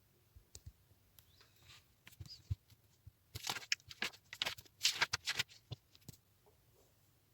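Faint desk-work handling sounds: scattered light clicks and taps, with a run of quick scratchy rustles from about three to six seconds in.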